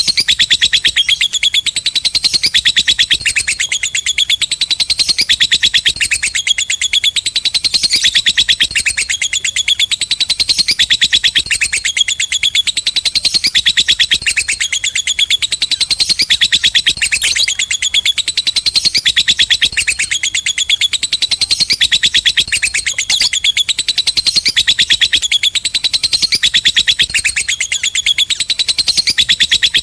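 Lovebird's long ngekek: an unbroken run of very rapid, high, shrill chattering chirps, repeating in short phrases about once a second, that stops abruptly at the end.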